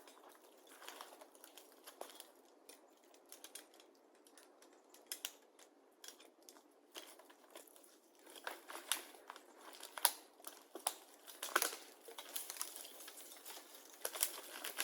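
Irregular rustling and crackling: a string of sharp crackles and small snaps that grows denser and louder about eight seconds in.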